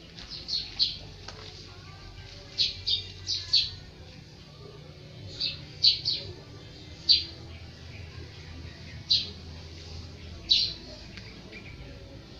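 Small birds chirping: short, sharp high chirps, singly and in quick twos and threes, every second or so, over a faint low steady hum.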